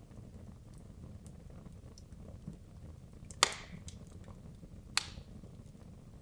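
Wood logs burning in a fireplace: a steady low rumble of the flames with scattered small ticks, and two sharp loud pops from the wood about three and a half and five seconds in, the first the louder.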